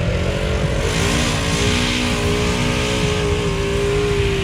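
Off-road side-by-side UTV engine revving up about a second in and then held at steady high revs, with a hiss over it.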